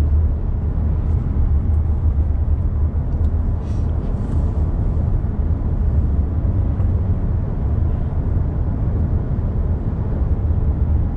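Steady low rumble of road and engine noise inside the cab of a 2022 Nissan Frontier pickup cruising on the road.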